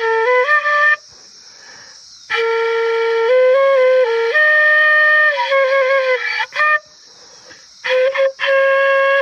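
A flute playing a slow melody in held notes and short runs, breaking off twice for about a second each, shortly after the start and again about two-thirds of the way through.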